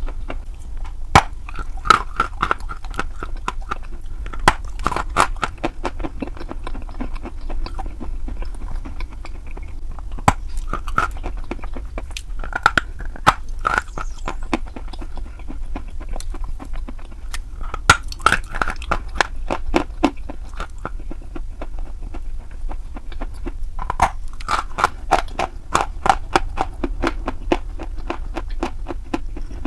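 Someone biting and chewing crunchy chalk close to the microphone: sharp crunches and crackles in clusters every few seconds, over a low steady hum.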